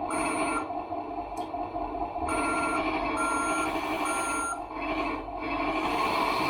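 Reversing warning beeper on a radio-controlled scale truck, giving four short, high beeps: one at the start, then three about a second apart from just after two seconds in, over a steady background hum.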